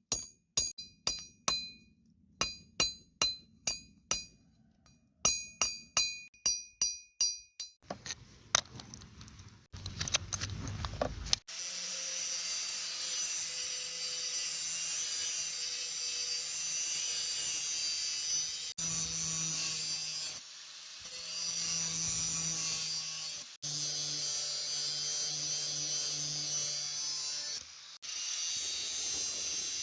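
Hammer blows ringing on steel at the anvil, in three runs of quick strikes at about three a second. Then, about eleven seconds in, a power grinder starts on the steel and runs steadily, cutting out briefly a few times.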